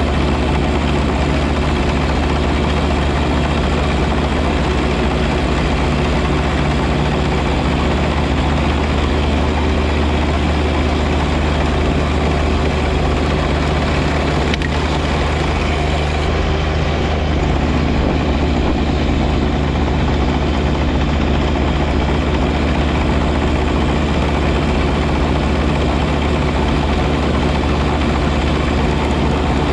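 John Deere 1025R compact tractor's three-cylinder diesel engine running steadily under load, powering its 54-inch front snow blower, a constant loud drone.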